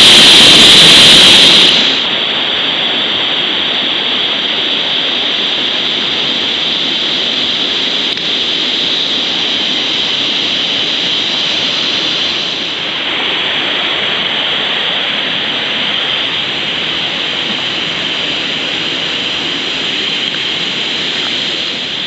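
Steady rush of a mountain waterfall, a constant even roar of falling water, louder for about the first two seconds before settling to a lower level.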